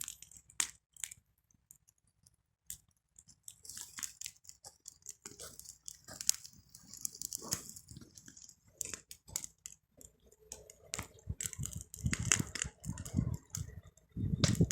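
Wood fire crackling, with irregular sharp snaps and pops that are sparse at first and come thicker from about three seconds in.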